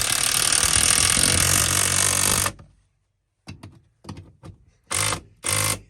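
A power tool running continuously, cutting off sharply about two and a half seconds in, then several short trigger bursts near the end, driving in seat bolts.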